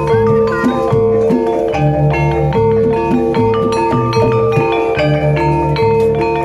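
Javanese gamelan-style music: struck metallophones ringing out interlocking melodic notes over a repeating low drum and gong pattern, the accompaniment to a kuda lumping (ebeg) dance.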